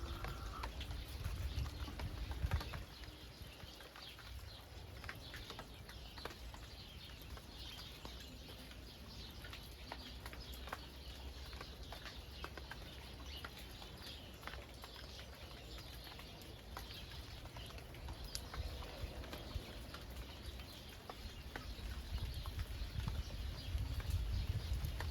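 Rain falling steadily, with many individual drops ticking sharply and irregularly. A low rumble swells in the first couple of seconds and again near the end.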